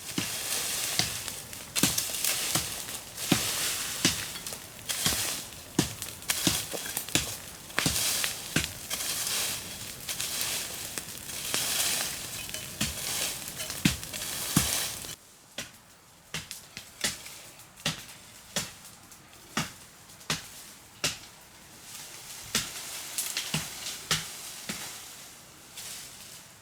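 A long run of sharp, irregular knocks and cracks over a dense rustling hiss; about halfway through, the hiss stops abruptly and the knocks carry on more sparsely.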